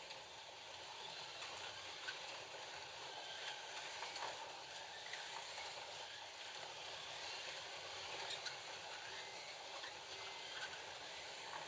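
FLY slot cars lapping the track: a steady whirring of their small electric motors and the running rattle of the cars in their slots, with a few faint clicks.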